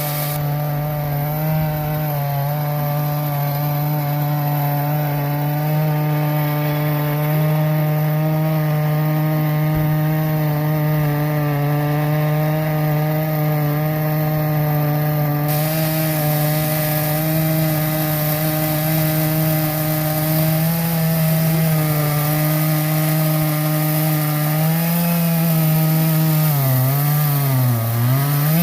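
Vintage petrol chainsaw running steadily while cutting through timber posts; its engine note sags twice near the end as it loads up in the cut.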